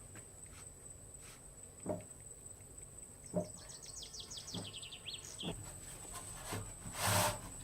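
Rainforest ambience: a steady high-pitched insect drone, with a bird giving a rapid trill of notes that falls in pitch midway. A few dull knocks and a louder rustling scrape near the end.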